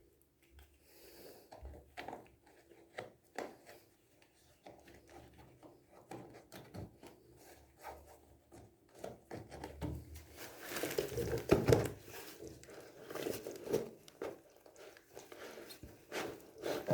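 Scattered small knocks, scrapes and rustling of materials being handled, busier and louder in the second half.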